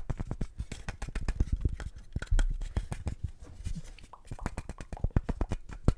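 Quick, irregular tapping and clicking close to the microphone, several sharp clicks a second, like fingertips tapping and handling a small object.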